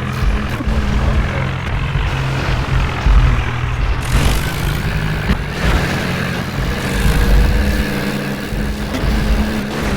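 A vehicle engine running steadily, with a deep, continuous hum.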